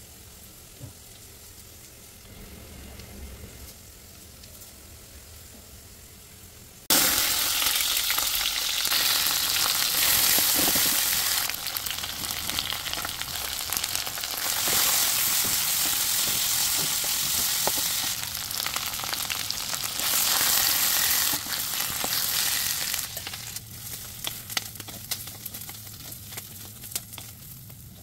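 Onions, cashews, dried red chillies and cumin sizzling as they fry in hot oil. The sizzle starts suddenly about seven seconds in after a quiet stretch, then eases near the end to a quieter sizzle with scattered ticks.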